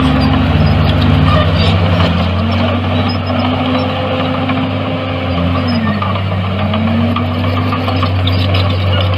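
Heavy diesel engine of earthmoving equipment running steadily; its pitch sags briefly about halfway through, then comes back up.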